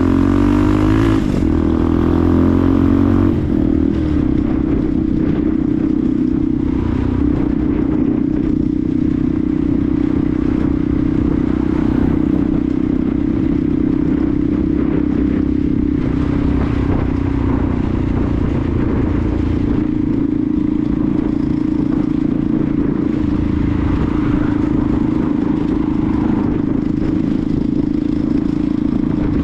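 Benelli TNT 125's single-cylinder engine running while riding, its note shifting in pitch over the first few seconds and then holding steady at a cruising speed.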